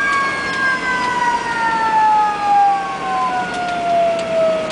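Fire engine siren winding down: one long, slow wail falling steadily in pitch.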